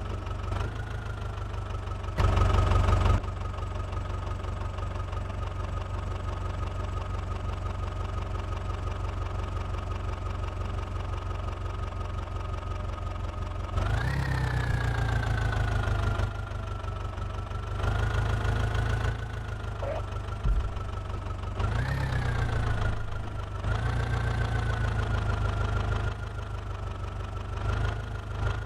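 Heavy diesel engine of earth-moving machinery, idling steadily with a brief louder surge about two seconds in. From about halfway it revs up repeatedly, the pitch rising and settling in surges of a second or two.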